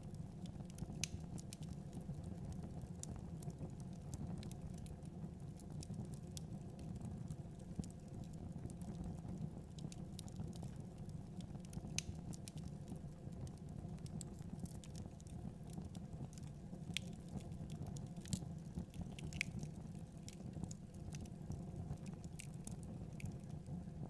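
Fire crackling in a fireplace: frequent small irregular pops and snaps over a steady low rumble of the flames, with a few louder snaps.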